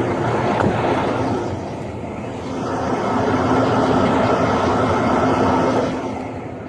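Heavy vehicle engine running, a steady low drone that grows louder partway through, then fades near the end.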